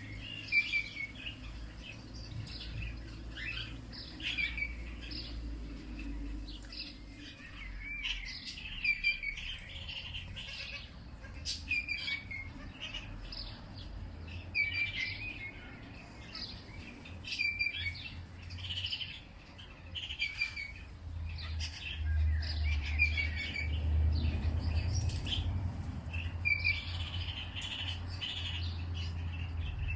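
Several songbirds chirping and calling in short repeated phrases, over a low steady rumble that grows louder about two thirds of the way through.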